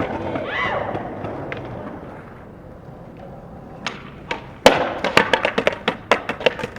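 Skateboard rolling on concrete, then a loud slam about two-thirds of the way in, followed by a quick run of sharp clacks as the board clatters across the ground.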